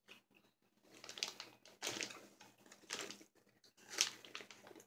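Close-up chewing of soft, sugar-coated fruit-flavoured gummy candy, heard as a few irregular soft wet clicks and crackles about a second apart.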